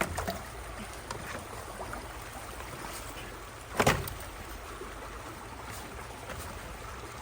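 Steady rush of creek water flowing through a roadside culvert, with one short, loud thump or splash about four seconds in.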